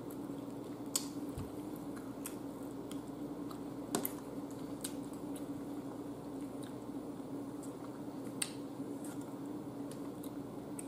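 Close-up chewing and mouth sounds of eating an air-fried chicken wing cooked crisp, with scattered crunchy clicks, three of them louder, about a second, four seconds and eight and a half seconds in, over a steady low hum.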